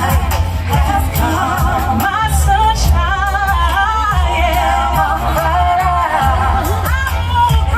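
Singing over backing music: sung lines with vibrato on held notes, over a strong, steady bass.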